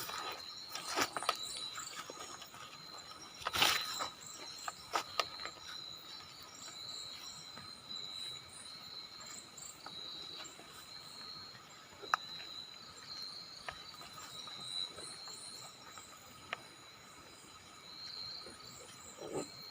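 Night insects, crickets and similar, chirping in a steady chorus of high continuous trills and rapid pulsed chirps. Scattered short knocks and crunches cut in now and then, the loudest about four seconds in.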